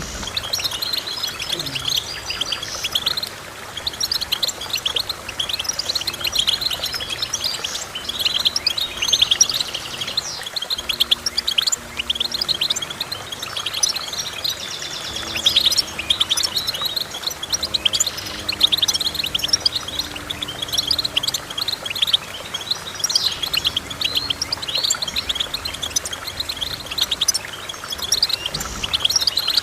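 Goldfinch singing: a fast, unbroken stream of high twittering chirps and trills.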